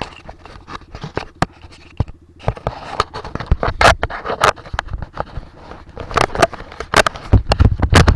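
Irregular scraping, scratching and knocking right against the microphone, typical of a camera being handled and mounted. It grows denser and louder, with a low rumble, near the end.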